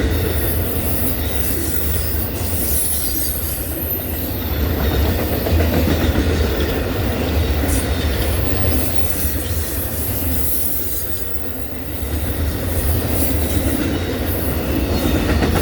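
The cars of the Amtrak Auto Train rolling steadily past at speed, with a low rumble and the wheels clacking over rail joints. A thin, high flange squeal comes and goes.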